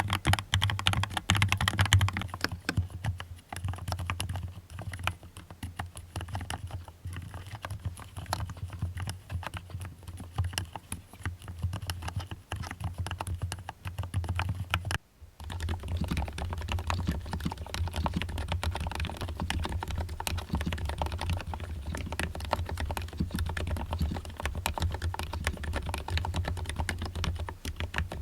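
Fast, continuous typing on a mechanical keyboard: a dense run of key clacks, broken by a momentary gap about halfway through before the typing resumes.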